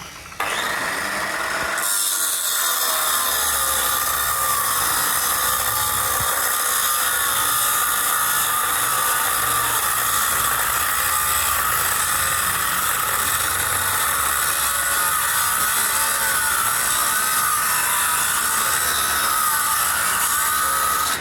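A power tool working metal, running steadily with a loud high-pitched grinding noise that starts about half a second in and keeps on without a break.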